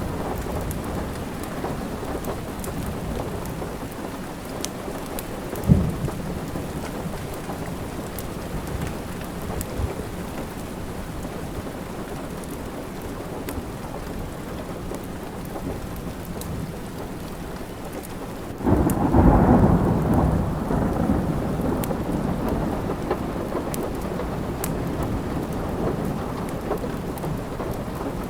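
Steady rain with a roll of thunder breaking suddenly about two-thirds of the way through and rumbling away over several seconds. A single sharp crack comes about six seconds in.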